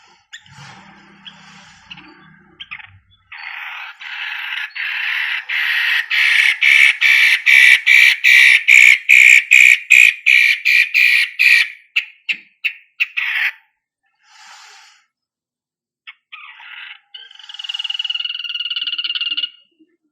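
Long-tailed shrike (cendet) calling: a long run of rapid, rasping notes, about three or four a second, that swells louder and then breaks off. After a short pause comes a shorter phrase with a steady high note.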